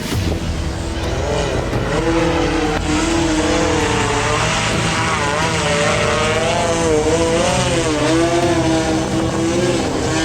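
Combat drone's motors and propellers whining, with several tones that keep shifting up and down in pitch as it manoeuvres.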